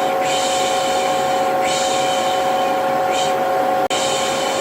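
Vacuum cleaner motor running steadily with a humming whine, overlaid with a repeated 'shh' shushing hiss about every second and a half. Together they make a baby-soothing white-noise loop. The sound cuts out for an instant near the end.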